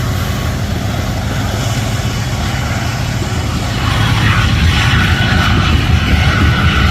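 Diesel locomotive engines running in a steady low rumble as a train passes. About four seconds in it grows louder and a high steady tone joins.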